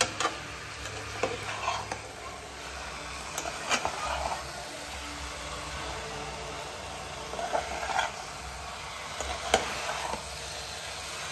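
Masala-coated chicken frying and sizzling dry in a pan, before any water is added, while a ladle stirs it. The ladle knocks and scrapes sharply against the pan every second or few.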